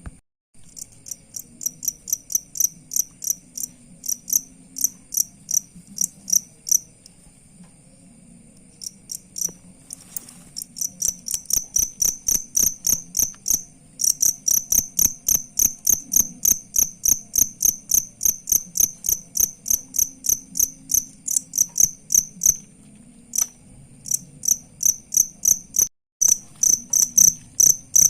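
Cricket chirping in a fast, even run of short, high chirps, several a second, over a faint steady high trill. The chirping pauses briefly twice.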